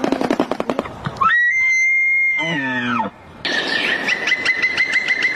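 A run of unusual bird calls: a fast rattle, then a long high whistle that swoops down at its end, and from about three and a half seconds in a rapid pulsing call over a steady whistle.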